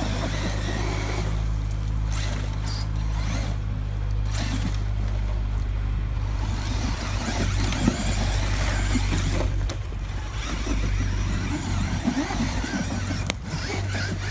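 Steady low drone of a Bobcat's diesel engine running, with the scrabbling of an electric 1/8-scale monster truck's tyres in loose dirt over it.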